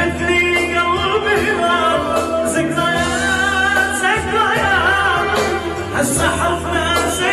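Arabic song: a solo voice singing a wavering, ornamented melody over steady instrumental accompaniment with a low bass.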